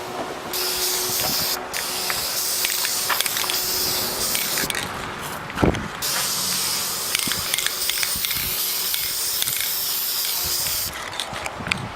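Aerosol spray-paint can hissing in long bursts. The spraying stops for about a second after nearly five seconds, with one sharp knock in the pause, then runs again until near the end.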